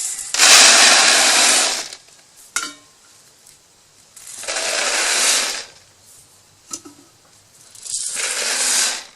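Pelleted chicken feed poured into a homemade feeder three times, each pour lasting a second or so, with short quiet gaps between.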